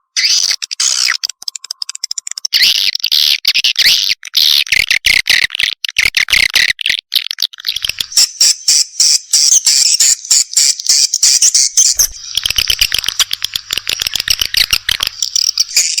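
Swiftlet lure recording: dense, rapid twittering of edible-nest swiftlets mixed with the calls of swiftlet chicks, the kind of playback used to draw swiftlets into a swiftlet house. It grows fuller about two and a half seconds in.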